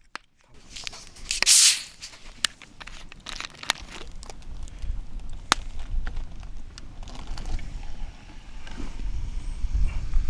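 Wood campfire crackling with scattered sharp pops. About a second and a half in there is a short loud hiss, and from about halfway a low wind rumble on the microphone builds.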